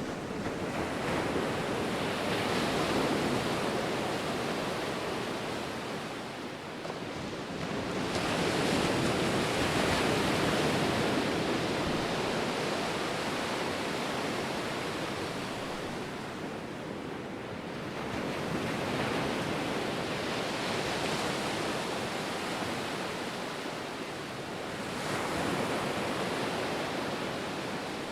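Ocean waves breaking and washing on the shore in slow surges, each swelling and ebbing over about eight seconds.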